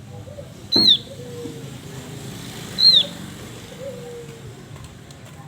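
Javan grey-throated white-eye (opior jawa) calling: two loud, short, sharp notes that bend downward, about a second in and again about three seconds in. Fainter, lower sliding calls carry on underneath.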